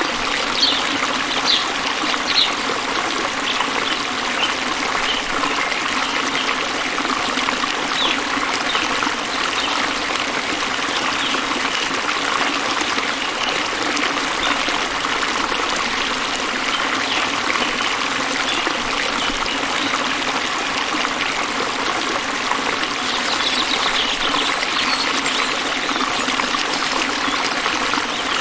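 Running water: a stream trickling and splashing steadily, with a few brief high ticks near the start and again late on.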